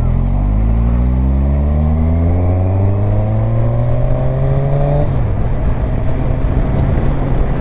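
Kawasaki Ninja 1000's inline-four engine pulling steadily, its pitch rising for about five seconds as the bike accelerates, then dropping suddenly and running on at a lower pitch.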